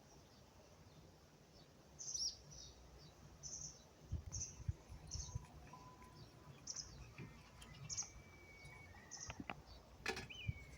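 Small songbirds chirping: short, high notes repeated about once or twice a second, faint over a low outdoor rumble.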